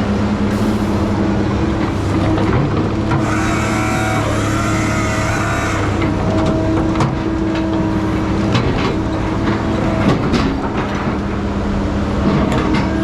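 Heavy logging machine's diesel engine running steadily. A whine sounds for about three seconds near the middle, and scattered clanks and knocks come in the second half.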